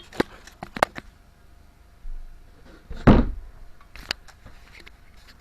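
A few sharp clicks and knocks, then one louder dull thud about three seconds in and another click a second later.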